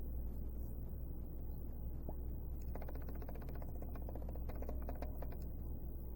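Steady low electrical hum with quiet room noise and a few faint ticks; faint pitched tones come in from about three seconds in.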